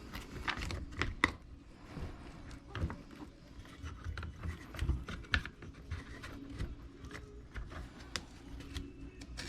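Small parts of a Traxxas E-Revo 2.0 RC truck being handled and fitted during reassembly: irregular light clicks and knocks, with a few sharper ones.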